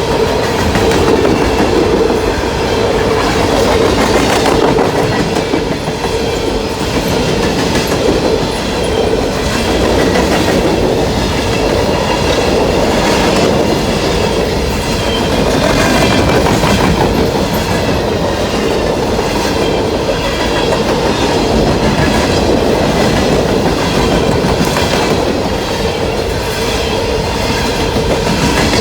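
Coal train passing close by at speed, a steady loud rumble of wheels with the clickety-clack of wheels over rail joints.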